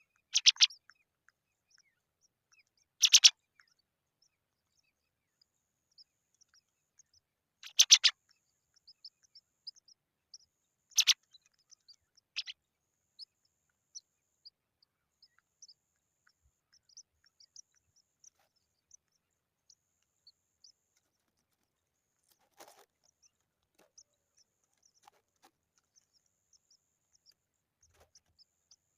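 Pipits calling: five loud, brief calls in the first half, with many faint, short, high chirps scattered throughout.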